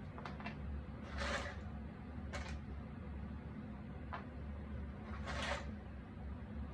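Jigsaw puzzle pieces being handled and pressed into place: a few short taps and clicks and two longer scraping rustles, over a steady low hum.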